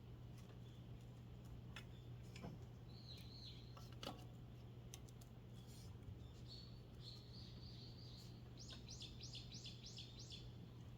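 Faint bird chirping: a few short calls, then a quick run of about six chirps near the end, over a steady low hum and a few light clicks.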